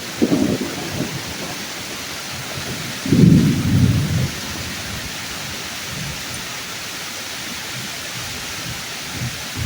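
Steady heavy rain falling on tree leaves, with thunder rumbling low: a short rumble at the start and a louder, longer one about three seconds in, then a faint swell near the end.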